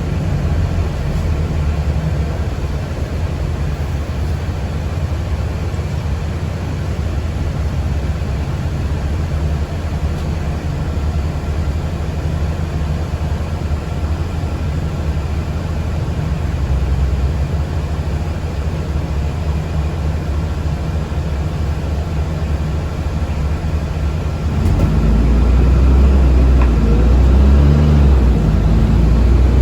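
Cabin noise of a moving city bus: a steady low rumble. About 25 seconds in it grows louder, with a low pitch that rises and falls.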